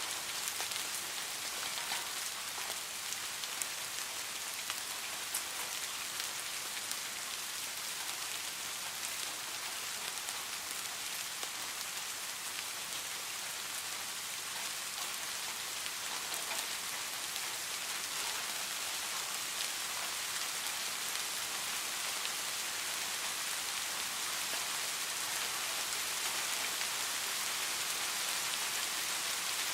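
Steady rain falling, a dense even hiss with scattered individual drop ticks, mostly in the first half.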